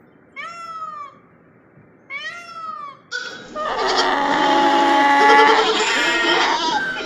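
A cat meowing twice, each meow rising and falling in pitch. About three seconds in, it gives way to a much louder, dense mix of overlapping animal calls.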